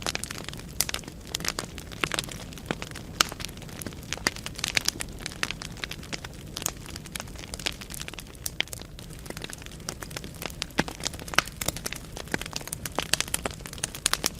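Wood fire burning in a fireplace: logs crackling and popping in irregular sharp snaps over a low steady rumble of the flames.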